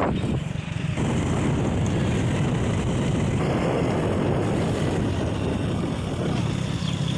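A vehicle on the move: steady engine and road rumble, with wind buffeting the microphone.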